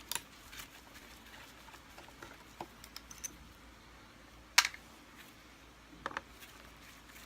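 Scattered small clicks and taps of a screwdriver and loose parts being handled while screws are taken out from underneath a Kirby vacuum's tech drive. The loudest is a sharp knock about four and a half seconds in, with a quick double click about a second later.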